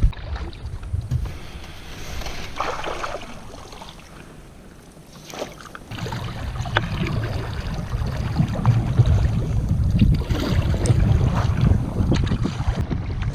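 Sea kayak paddle strokes splashing in the water, with wind buffeting the microphone; the wind rumble eases off for the first few seconds, then comes back strongly about six seconds in.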